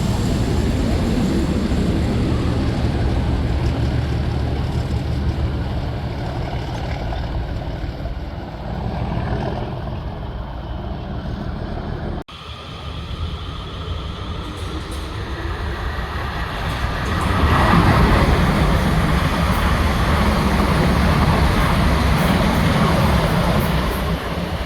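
A pair of Class 37 diesel locomotives running past with a steady low engine note and rail noise. After a sudden cut about halfway through, another train approaches and passes, at its loudest from about five seconds after the cut.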